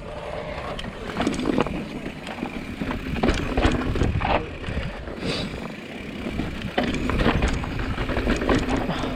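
Mountain bike descending a rough dirt trail: tyres rolling and the frame and chain rattling with repeated clattering knocks over bumps, under steady wind rumble on the mic.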